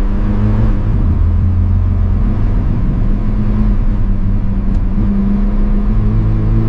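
An old car's engine running steadily, its pitch stepping up and down a few times.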